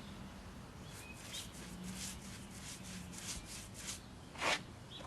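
Sealcoat being spread over an asphalt driveway, heard as a run of short, rough scraping strokes, the loudest near the end. A bird chirps faintly twice.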